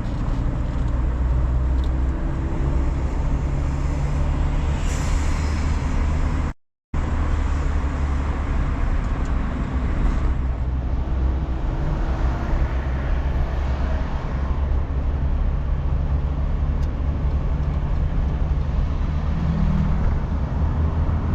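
Steady car-cabin noise while driving: low engine hum with tyre and road noise. The sound cuts out completely for a moment about a third of the way through.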